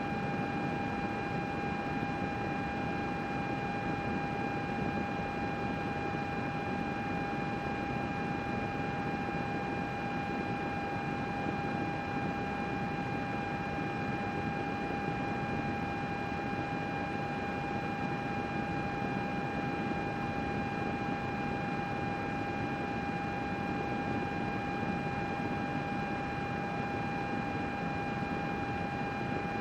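Computer running, its cooling fans whirring: an even airy hiss with a steady high whine over it, unchanging throughout.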